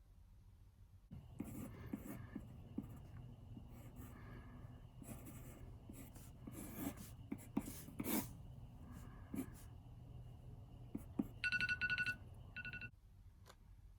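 Drawing on paper: quick, irregular scratchy strokes for about ten seconds. Then an electronic timer beeps in two short bursts, signalling that the ten seconds are up.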